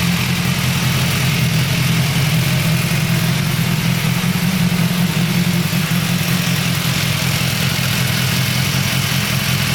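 BMW S1000XR's inline-four engine idling steadily.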